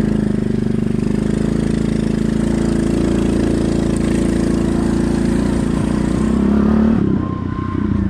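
Pit bike's small single-cylinder engine running steadily under way. Near the end the sound drops off briefly, as when the throttle is eased, then comes back up.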